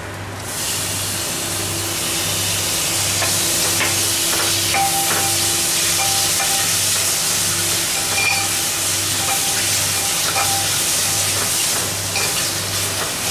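Chopped tomatoes sizzling in hot oil and onion-spice masala that has been fried until the oil separates, stirred with a metal spoon that clicks and scrapes against the metal pot. The sizzle jumps up about half a second in as the tomatoes go in, then holds steady.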